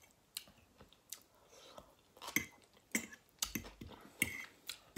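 Chewing and wet mouth sounds of someone eating meatloaf, boiled baby potatoes and coleslaw, with several short sharp clicks spread through.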